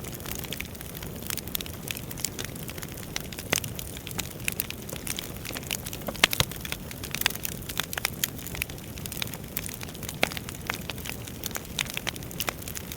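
Wood fire burning in a fireplace, crackling with frequent irregular pops and snaps over a low steady rush of flame; a louder pop about six seconds in.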